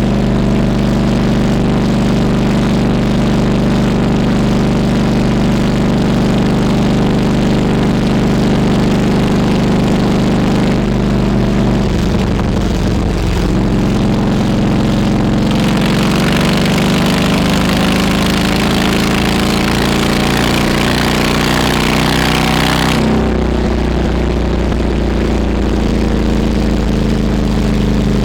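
Harley-Davidson Road King Classic's V-twin engine running on the move. About twelve seconds in its pitch dips, then climbs steadily for several seconds as the bike accelerates, with a rush of wind noise building over it. Both cut off sharply about 23 seconds in, when the throttle closes and the engine settles to a lower, steady pitch.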